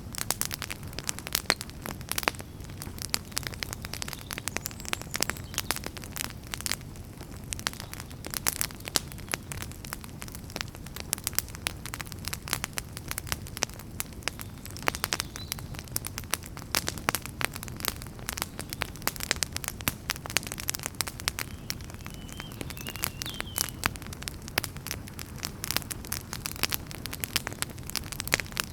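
Wood fire burning in a fireplace: dense, irregular crackling over a steady low rumble of the flames.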